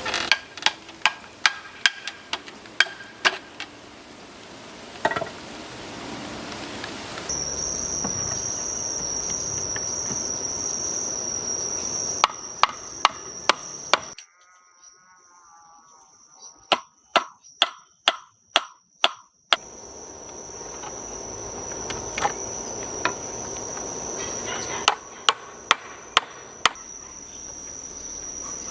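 Hammering: bursts of sharp knocks, about two to three a second, over a steady high insect chirr like crickets that comes in several seconds in.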